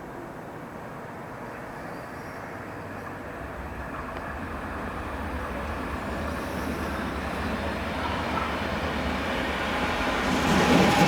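A train approaching on the main line, a deep rumble that grows steadily louder and swells sharply near the end as it draws close.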